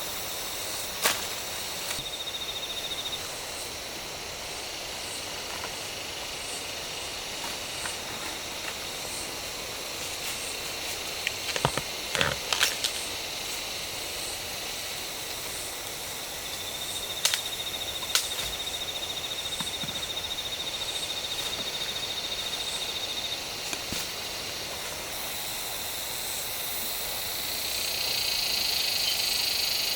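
Outdoor ambience with a steady high hiss and trilling that comes and goes, broken by scattered knocks and taps, with a short cluster of them about twelve seconds in.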